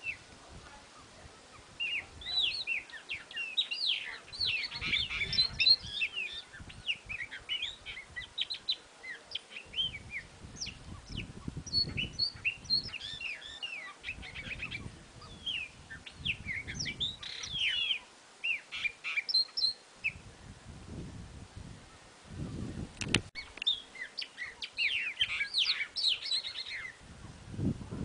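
Several wild birds chirping and singing at once, a busy chorus of short high chirps and quick trills that thins out in a few pauses. Low dull bumps sound under it, and a single sharp click comes near the end.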